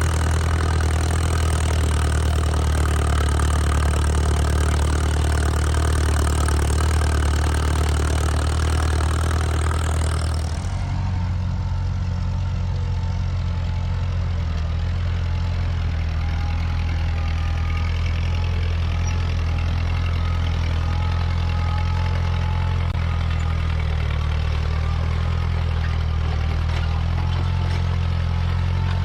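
Tractor engines running steadily, a constant low drone; the sound changes abruptly about ten seconds in, the higher hiss dropping away while the low drone carries on.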